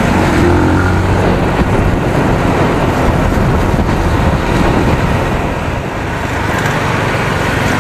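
Benelli TNT 25 motorcycle's 250 cc single-cylinder engine running through its stock exhaust while the bike is ridden, mixed with wind and road noise.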